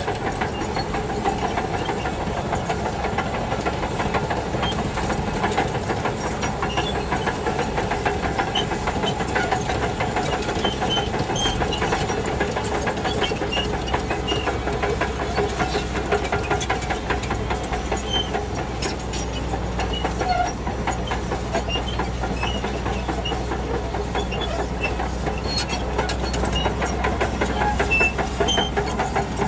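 Shantui DH17C2 crawler bulldozer working: its diesel engine runs steadily under load while the steel tracks clatter and squeak.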